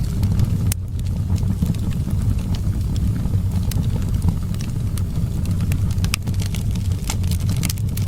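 Fireplace fire crackling, with sharp pops scattered irregularly, over a steady low rumble of wind.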